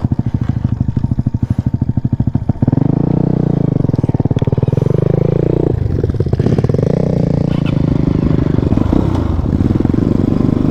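Motorcycle engine running at low revs with an even chugging pulse. About two and a half seconds in it gets louder and the revs rise and fall as the bike pulls through mud.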